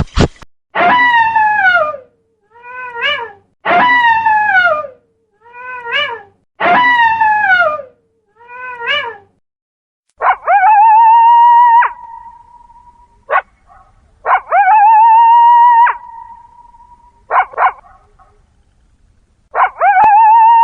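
A cat meowing again and again: long meows falling in pitch, alternating with short rising mews. From about ten seconds in come three long animal calls held at one pitch.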